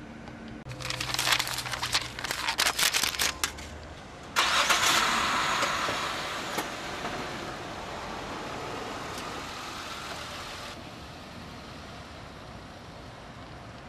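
A burst of crackling clicks for about three seconds. Then, about four seconds in, a car engine starts with a sudden loud rush that slowly fades as the car pulls away.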